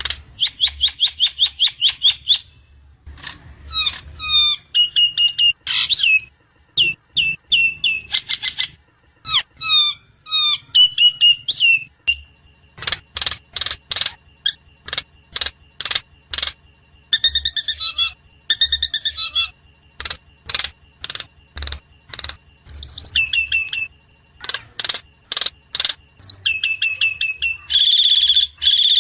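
Javan myna (jalak kebo) song: fast runs of repeated sharp chirps alternating with short sweeping phrases and harsh trills, almost without pause.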